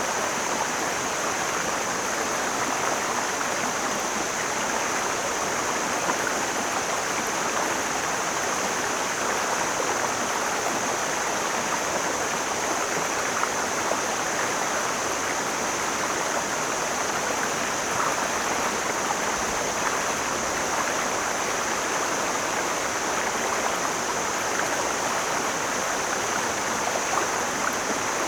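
Mountain stream flowing steadily over rocks, a continuous rushing and splashing of water.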